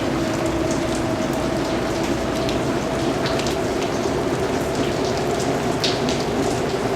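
Steady rain falling, an even hiss with single drops landing close by as short, sharp ticks scattered through it.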